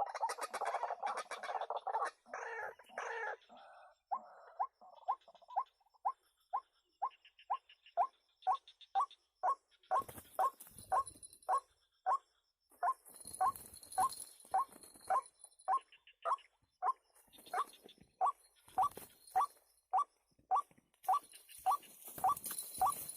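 White-breasted waterhen calling: a harsh croaking chatter for the first few seconds, then a long run of short single notes repeated about twice a second.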